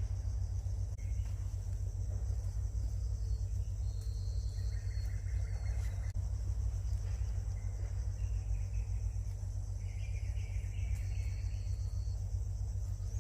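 Steady, high insect chirring over a constant low rumble, with a few brief higher calls standing out twice.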